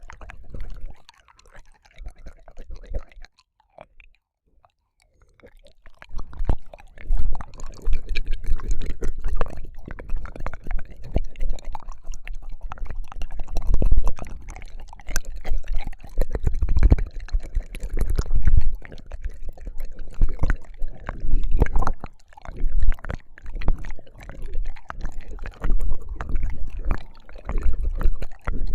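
ASMR ear licking on a binaural microphone: close, wet tongue and mouth sounds, with many irregular smacks and slurps and deep, muffled low thuds. There is a brief pause about four seconds in.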